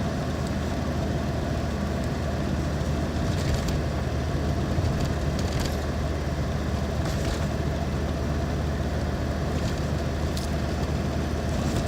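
Car running steadily, a low, even engine hum under a constant noise, with a few faint clicks.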